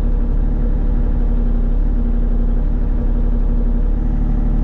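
Excavator engine running steadily at a constant speed, a low, even drone.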